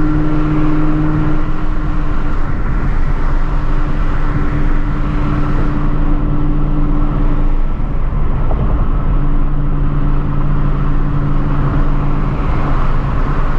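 Supercharged Shelby GT350 flat-plane-crank V8 cruising at steady speed, heard from inside the car: an even engine drone over road and tyre noise.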